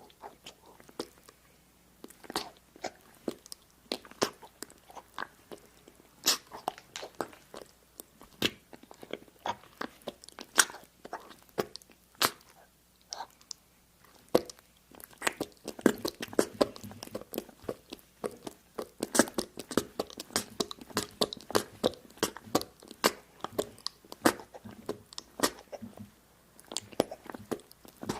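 Close-miked crisp crunches and clicks, scattered at first and coming thick and fast from about halfway through.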